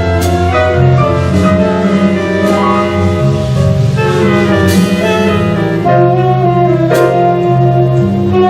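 Live jazz band playing a slow ballad: saxophones and horns holding sustained chords over a walking bass, with a cymbal struck about every two seconds.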